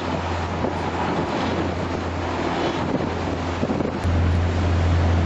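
Steady low drone of a cruise boat's engine under way, with wind buffeting the microphone; the hum grows louder about four seconds in.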